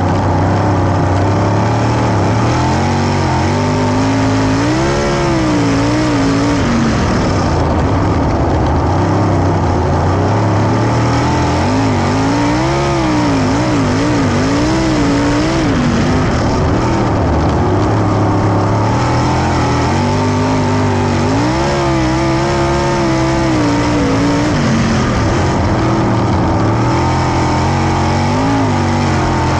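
410 sprint car V8 engines racing on a dirt oval, a loud unbroken engine noise whose pitch swings up and down in repeated swells as the cars lift and accelerate through the corners.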